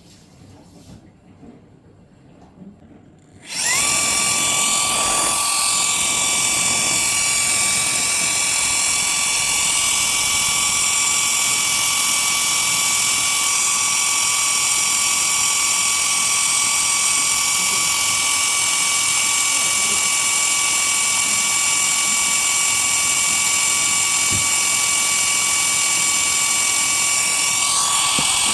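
A small electric motor on a homemade evaporative cooler switches on about three and a half seconds in and runs steadily with a high-pitched whine over a loud hiss.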